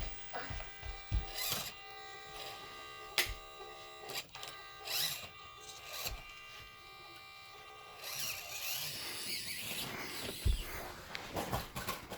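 Micro RC rock crawler's small electric motor and gearbox whining steadily as it drives, with scattered knocks and bumps. The last few seconds turn noisier and scuffier.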